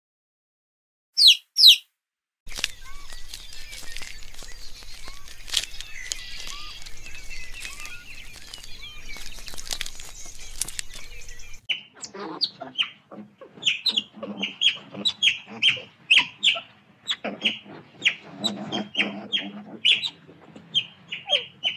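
Birds chirping: two short calls, then a dense chorus of chirps over a low hum, then, from about halfway, a rapid string of short high chirps with lower calls mixed in.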